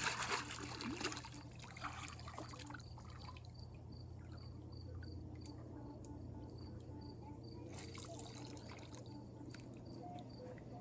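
Water trickling and sloshing for the first couple of seconds, then a faint steady background with insects chirping in short, evenly repeated notes.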